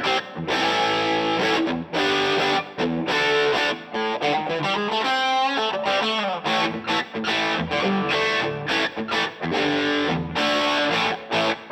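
Electric guitar played through the DVII amplifier with distortion: chords repeatedly cut short by brief stops, and a bending lead line about halfway through.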